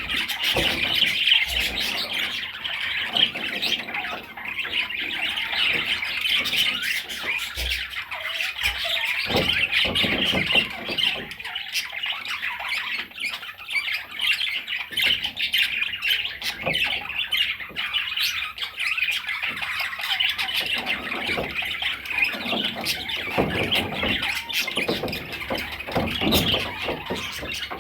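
Budgerigar chattering and squawking in a steady stream of warbling calls.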